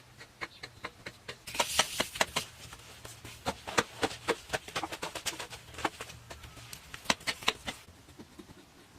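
Irregular knocks and taps of hard objects being handled, with a brief scraping rustle about one and a half seconds in; they die down near the end.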